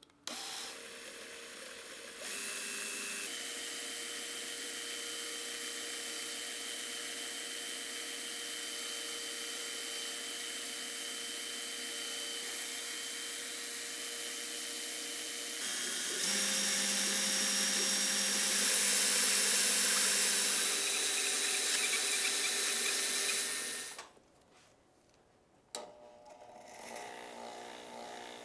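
Small electric power tool running steadily. About sixteen seconds in its tone shifts and it gets louder, and it stops about twenty-four seconds in.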